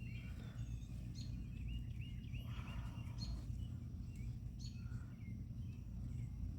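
Songbirds chirping and calling in short repeated phrases, over a steady low rumble.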